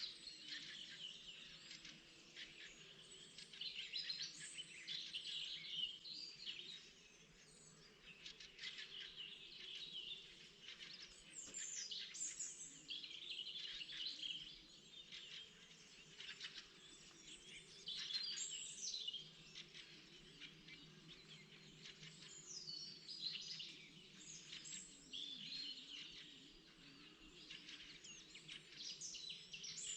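Spring birdsong: several songbirds singing at once, their short, quick phrases overlapping and repeating without a break.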